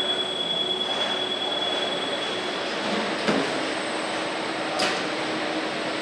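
Steady factory-floor machinery noise from an engine production line, with a steady high tone that stops about three seconds in, a sharp knock just after, and a short hiss near the end.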